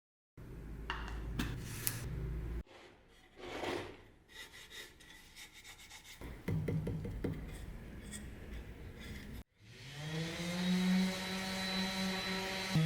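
Short bursts of hand work on wood: rubbing and scraping, broken up by abrupt cuts. About ten seconds in, an electric tool motor spins up and runs steadily.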